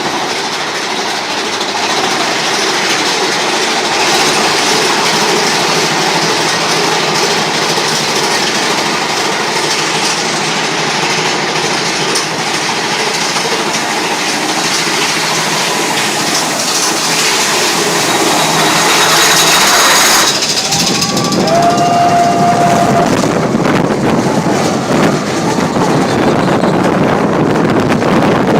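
Mine-train roller coaster cars running along the track, a loud steady rattle and rumble from the wheels. About twenty seconds in the sound shifts to a lower rush, with a brief held tone soon after.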